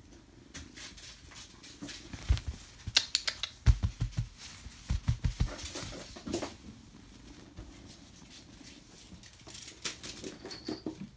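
Kittens moving about, their paws making light pattering and scattered small knocks, busiest in the first half and sparser later.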